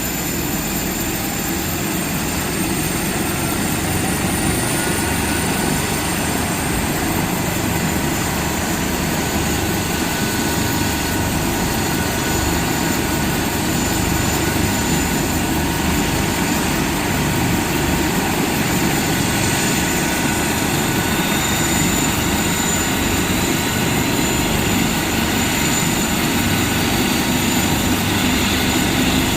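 Airbus ACH145 (BK117 D-3) helicopter's turboshaft engines and rotor running steadily. The sound grows slowly louder, and a turbine whine rises gently in pitch toward the end.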